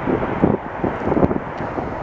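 Strong wind buffeting the microphone: a loud, irregular gusty rumble.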